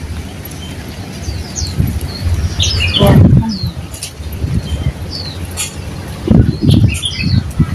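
Birds chirping in many short, high calls. Loud low thuds break in about three seconds in and again near the end.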